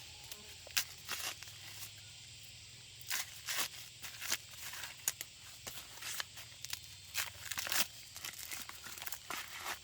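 Irregular rustling, crackling and tearing noises, a quick crackle every half second or so, over a faint steady low hum.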